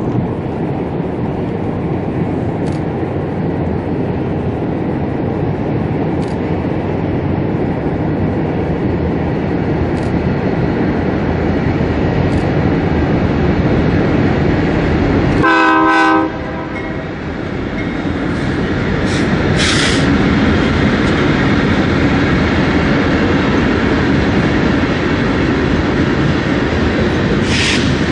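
Train passing close by with a steady rumble of wheels on rail and occasional clicks. About halfway through comes one short horn note.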